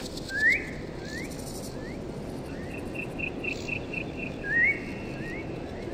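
Birds calling: a series of short rising whistled chirps, the loudest about half a second in and again about four and a half seconds in, with a quick run of short high notes, about four a second, in between, over a steady background hiss.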